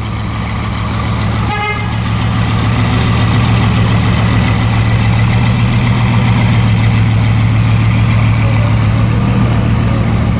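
Bugatti Veyron 16.4's quad-turbo W16 engine idling through its Mansory exhaust: a steady low drone that swells over the first couple of seconds and then holds even. A brief high chirp about one and a half seconds in.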